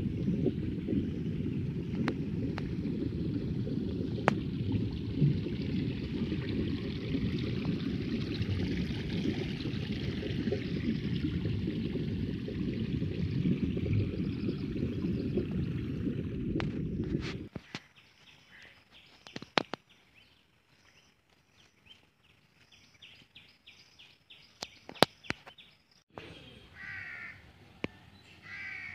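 Steady rushing noise of rainwater running down a flooded street, cutting off abruptly a little past halfway. Then it goes quiet, with scattered ticks, and crows cawing twice near the end.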